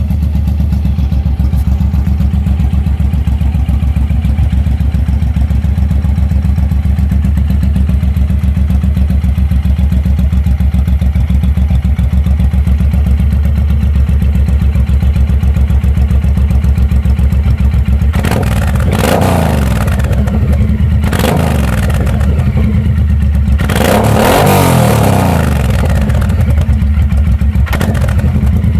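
Suzuki M109R's 1783 cc V-twin running through its shortened stock exhaust: a steady loping idle, then about four quick throttle blips in the second half, each rising and falling back to idle.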